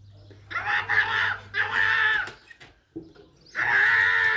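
An animal calling three times, each call drawn out and pitched, with short gaps between them.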